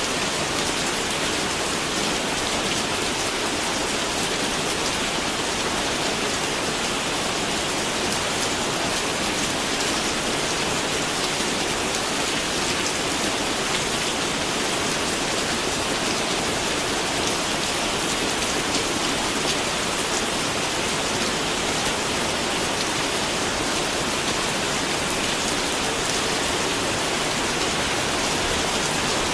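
Steady rain falling on surfaces, an even hiss of many drops at a constant level.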